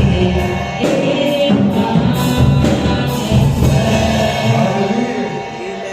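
Congregation or choir singing a gospel worship song over band accompaniment with a steady beat.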